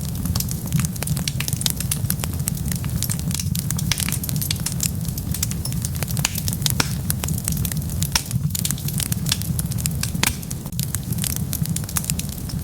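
Wood fire burning in a fireplace: frequent, irregular sharp crackles and pops over a steady low rumble of flame.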